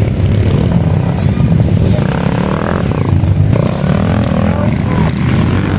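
Dirt bike engines running during an enduro motocross race, with the engine pitch rising and falling in the middle.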